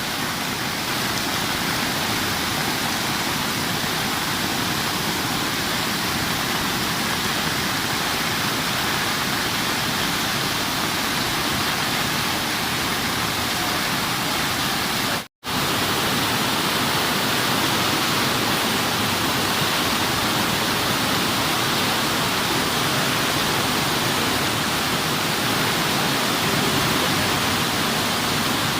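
Heavy downpour of rain: a loud, steady hiss that cuts out for an instant about halfway through.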